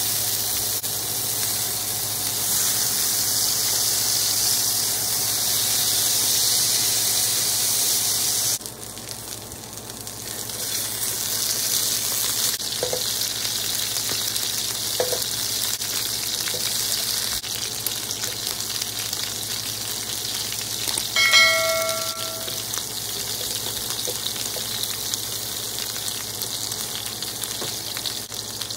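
Chicken breast sizzling as it fries in oil in a nonstick pan; the sizzle drops sharply about a third of the way in and carries on more quietly. About two-thirds in, a short ringing tone sounds over it.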